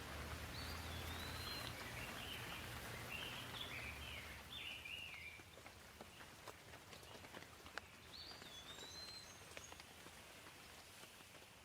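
Gentle rain as a faint, even hiss, with scattered single drops ticking. A bird calls in quick chirping phrases over the first few seconds and briefly again later.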